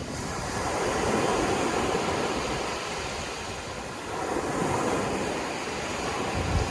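Sea waves washing in and breaking, a steady rushing surf that swells and falls back, with some wind buffeting the microphone near the end.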